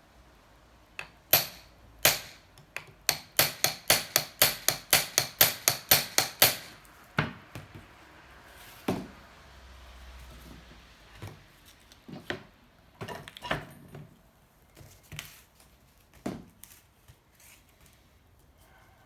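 Hammer blows knocking at the seized cylinder of a 1984 Honda C70 engine to free it from the engine housing. Two single strikes come first, then a quick run of about a dozen blows at roughly four a second, then scattered lighter knocks.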